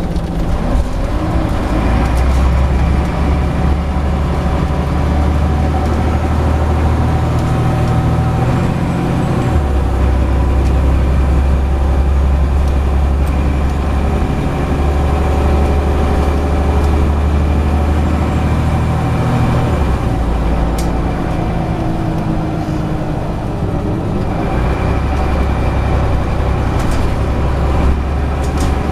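Scania CN94UB Omnicity single-decker bus under way, its engine running with a deep low note that shifts abruptly a few times, along with a faint high whine and occasional short clicks.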